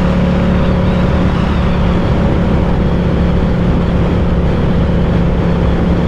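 Ducati Diavel 1260's V-twin engine running at a steady engine speed while the motorcycle is ridden, with no change in revs.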